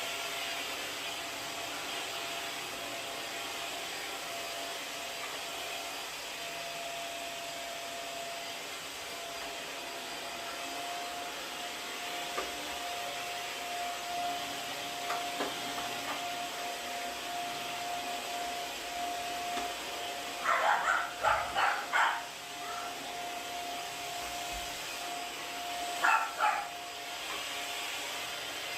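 Household vacuum cleaner running steadily with a constant whine. A dog barks in a quick run of about five barks about twenty seconds in, and twice more near the end.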